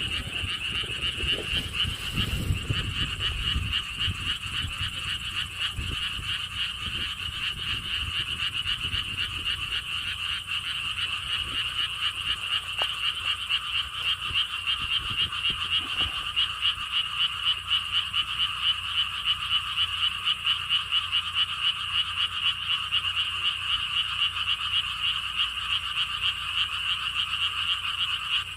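Chorus of many frogs calling together, a steady mass of rapid, high-pitched croaks that pulses more evenly in its second half. A low rumble sits under it for the first few seconds.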